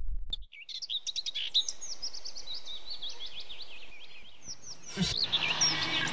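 Many small birds chirping and twittering, with lots of quick rising and falling calls overlapping, after a deep rumble fades out in the first half second. About five seconds in, a knock sounds and a fuller background noise comes in under the birds.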